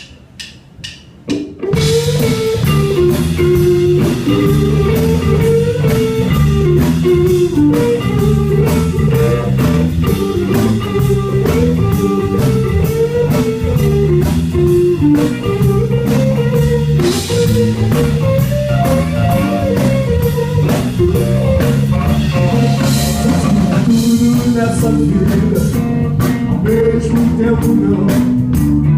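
Live band playing an instrumental intro on electric guitar, bass and drums. The full band comes in about a second and a half in, after a few soft hits.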